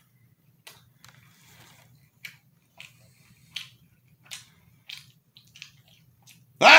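A man chewing pizza: soft, wet mouth clicks and smacks come about every half second. A loud voiced sound from him begins near the end.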